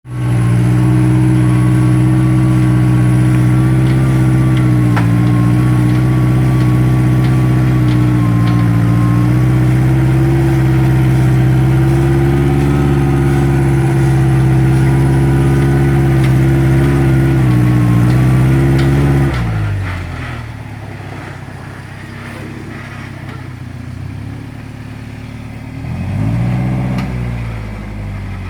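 Off-road vehicle's engine working hard under a steady load as it climbs in reverse up a waterfall. About two-thirds of the way through it drops abruptly to a quieter idle, then revs up briefly and settles again near the end.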